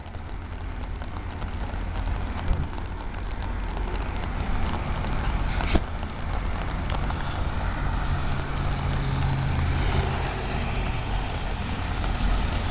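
Loram rail grinder working the track: a steady heavy rumble from its engines under a rasping grinding noise. It grows louder over the first few seconds, with a sharp click about halfway through.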